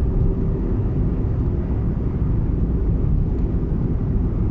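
Steady low rumble of a car travelling along a road, engine and tyre noise without change.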